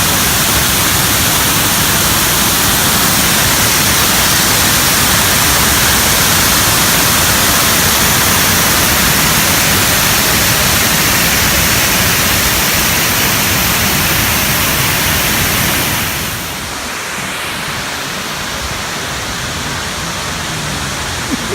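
Fukuroda Falls, a large tiered waterfall, pouring: a loud, steady rush of falling water. About three-quarters of the way through it drops a little in level and becomes duller.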